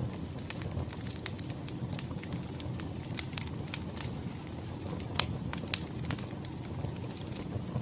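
Wood fire crackling: irregular sharp pops and snaps, one louder pop about five seconds in, over a low steady rumble of the burning logs.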